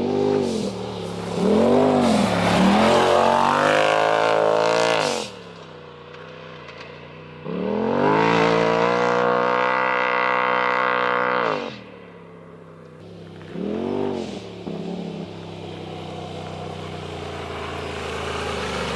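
Polaris RZR Turbo S side-by-side's turbocharged twin-cylinder engine through a straight-pipe Agency Power exhaust, revving hard. It gives several quick rev blips, then a loud climbing rev that drops off suddenly. A long full-throttle pull follows for about four seconds and cuts off sharply, then one more blip and a lower steady run that slowly builds.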